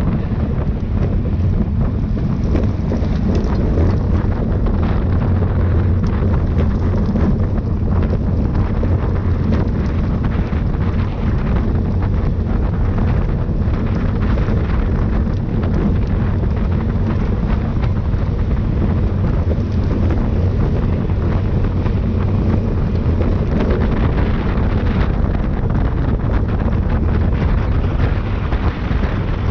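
Steady, loud wind buffeting on the microphone of a camera riding along at speed, a low rumble with no breaks.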